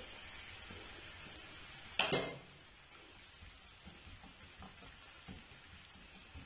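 Sliced onions and grated carrot frying in a little oil in a nonstick pan with a faint sizzle. About two seconds in there is a single clatter of utensil on pan, followed by soft stirring and scraping with a spatula.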